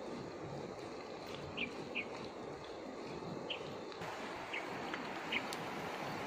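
Outdoor ambience: a steady background hiss with a bird giving a few short, scattered chirps.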